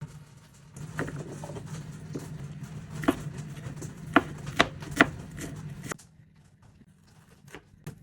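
Scattered sharp knocks and clatters of kitchen work, the loudest four in the middle of the stretch, over a steady low hum that cuts off about three quarters of the way through.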